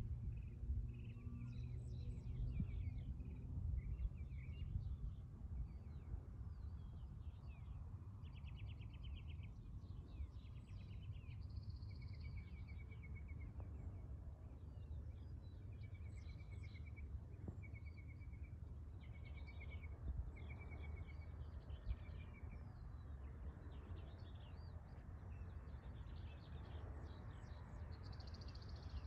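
Small birds singing and calling, with short chirps, trills and a run of quick repeated notes, over a steady low rumble.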